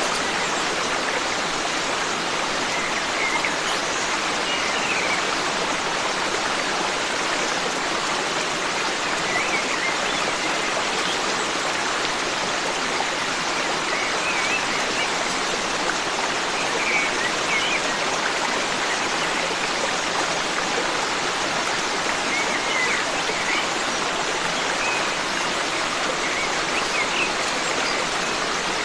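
Forest stream flowing steadily with an even rush of water, with faint short bird chirps every few seconds.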